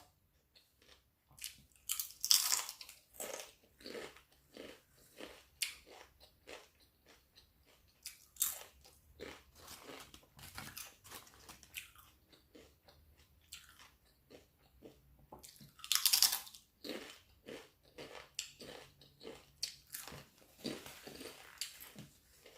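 A person biting into and chewing a steak and cheese sub sandwich up close, with many soft chewing clicks and louder bite noises about two seconds in and again around sixteen seconds.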